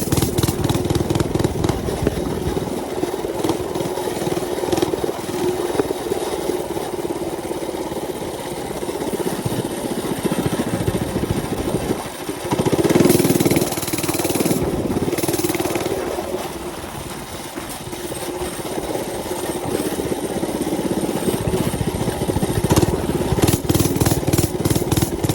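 Mini bike's small gas engine running under way with a steady drone. It swells louder with throttle about halfway through, then eases off for a few seconds before picking up again.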